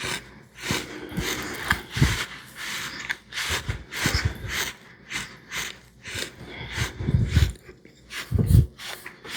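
Close-miked chewing: irregular wet clicks and smacks of the mouth, with a few louder, deeper thumps about two seconds in and again near the end.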